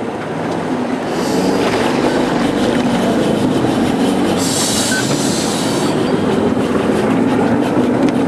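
4x4's engine running steadily under load while driving through a deep river crossing, getting louder about a second in. Two bursts of splashing hiss come over it, about a second in and again around five seconds in.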